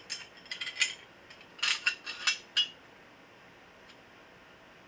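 Steel angle-iron bracket pieces clinking and clattering against each other as they are handled and lined up, in two short clusters within the first three seconds.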